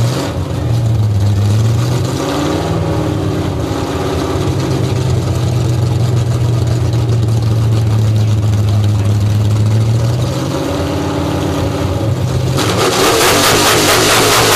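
Hot rod engine running loud through open exhaust headers: held at a steady raised rev, easing off briefly, then opened up into a much louder, harsher rev near the end.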